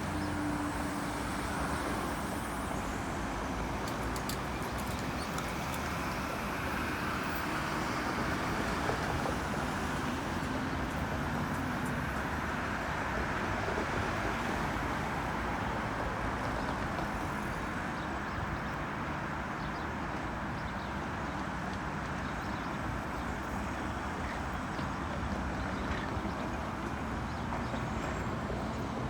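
Steady vehicle rumble and traffic noise at an even level, with a faint low hum underneath.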